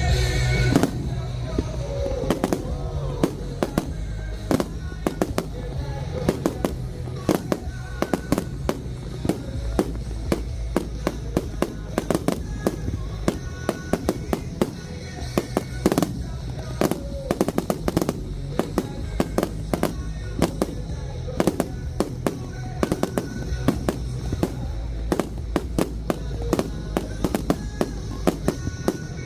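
Aerial fireworks shells bursting overhead in rapid, irregular succession, many sharp bangs and crackles one after another, with festival music playing underneath.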